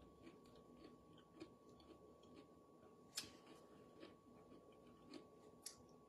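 Faint eating sounds: a person chewing food, with scattered short mouth and utensil clicks, the sharpest about three seconds in.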